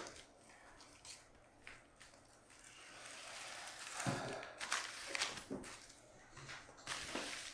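Handling of small plastic epoxy containers during pouring: rustling that builds partway through, then several sharp knocks and clicks around the middle and once more near the end.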